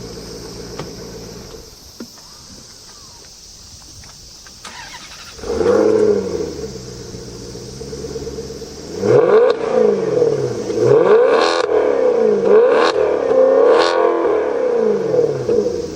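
Maserati Quattroporte engine through a Kreissieg aftermarket exhaust, idling, then revved once about five seconds in. From about nine seconds on, a run of quick throttle blips follows, each a sharp rise and fall in pitch.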